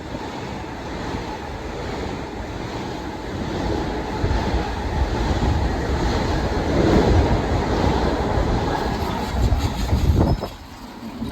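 Long Island Rail Road train rolling through on the tracks, a loud, steady rumble of wheels on rail with some clatter, which falls away sharply about ten seconds in as the train clears.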